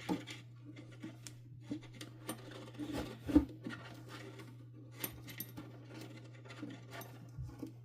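Scattered light clicks and knocks of vacuum cleaner parts and hand tools being handled during disassembly, with one louder knock about three and a half seconds in.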